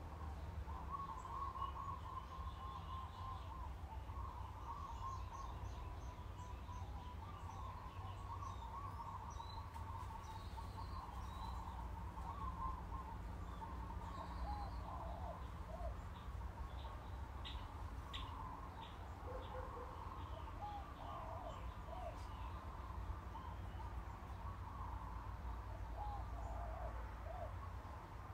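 Many small birds chirping and calling, over a low steady hum.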